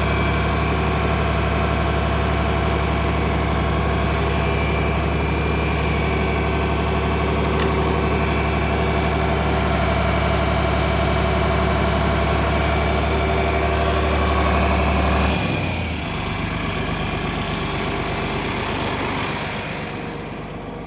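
John Deere tractor engine running steadily at idle; about 15 seconds in its deep low note drops away and it runs on quieter.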